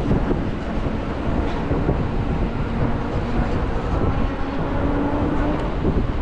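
Inside a moving city bus: a steady low rumble of drive and road noise, with a faint motor whine that grows a little stronger past the middle.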